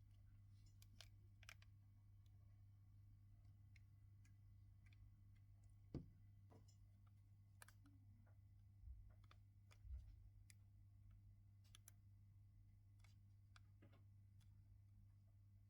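Near silence with faint, scattered clicks and a few soft knocks of small tools and tiny parts being handled during the smartwatch teardown, over a steady low hum.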